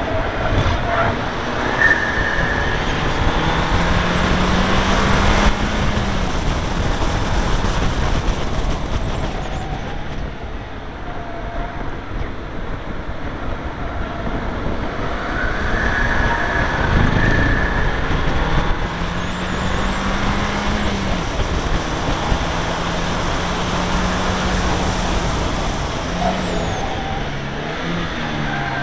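Seat Leon Cupra R's turbocharged four-cylinder engine on track, heard from the car with steady wind and road noise; the revs climb and fall through the gears, with a quieter stretch near the middle where it eases off.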